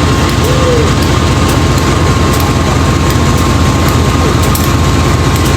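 GE 7FDL-8 V8 diesel locomotive engine running steadily and loud, a deep even throb with a faint steady whine above it.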